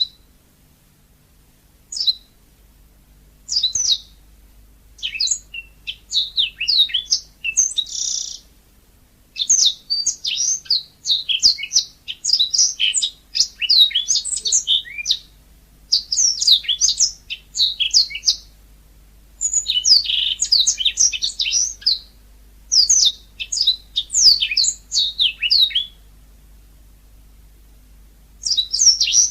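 Mozambique canary (yellow-fronted canary) singing: quick, high twittering phrases lasting a second or two, broken by short pauses.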